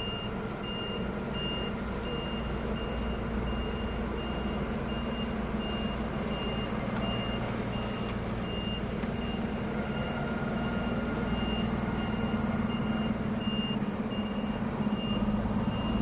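Truck reversing alarm beeping steadily, about one and a half high beeps a second, over the steady hum of the truck's running engine.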